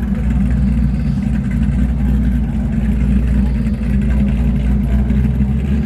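A car engine running steadily at idle with a deep, even rumble.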